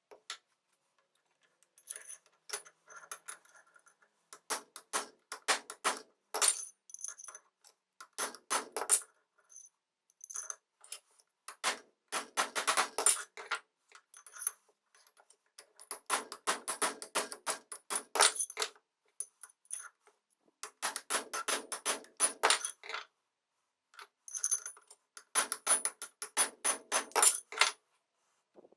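Small metal parts clinking and tapping against each other, each strike ringing briefly, in bursts of rapid strikes with short pauses between them.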